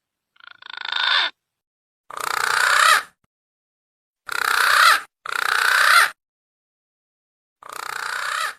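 Green pigeon (punai) lure call: five short, hoarse, wavering phrases, each growing louder and then cutting off sharply, with pauses between them.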